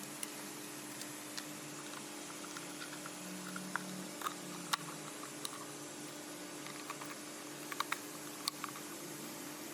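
Irregular light clicks and taps, like small parts being handled, over a steady low hum.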